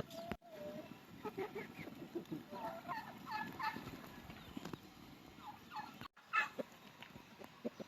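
Domestic poultry calling: a rapid run of short, falling calls through the middle, with a few more just before and after a sudden break near the end.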